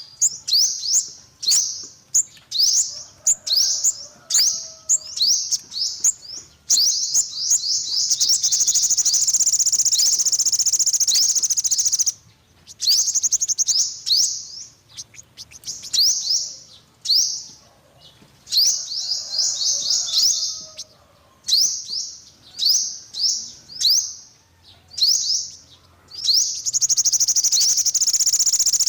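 Sunbird singing: runs of short, sharp, high chirps about two a second, broken by two long, fast, buzzy trills lasting several seconds each, one in the middle and one near the end.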